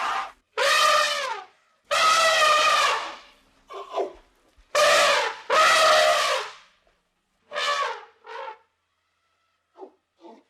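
Elephant trumpeting: a series of about eight short trumpet calls, each a fraction of a second to about a second long, separated by abrupt silences, several dropping in pitch as they end.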